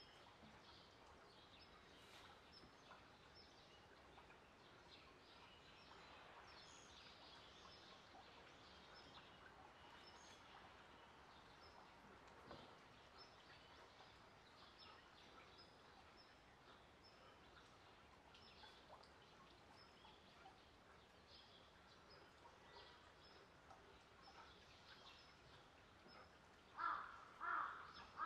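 Near-silent ambience with faint, scattered small-bird chirps; near the end a bird gives three short, louder calls in quick succession.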